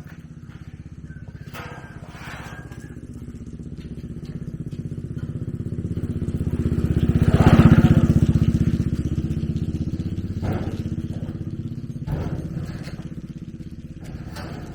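A motorbike engine running, growing louder to a peak about halfway through and then slowly fading, with a few short knocks near the end.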